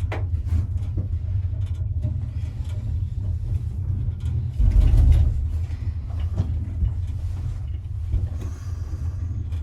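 Steady low rumble of a gondola cabin riding the tramway cable, with a few faint clicks and a louder swell about five seconds in.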